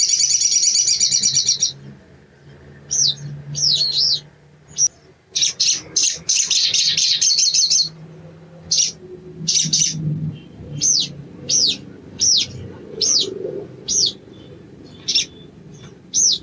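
Sogon (sogok ontong) sunbird singing: two long, fast chattering trills, then a string of sharp, separate chip notes that slide down in pitch, about two a second.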